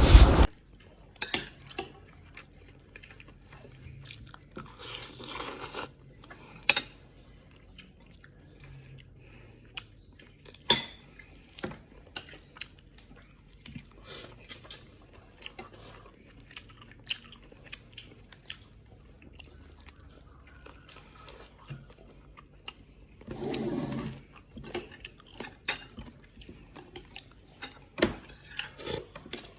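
Close-up eating sounds: chewing and biting with scattered small clicks and crunches, and now and then a clink of dishes or cutlery.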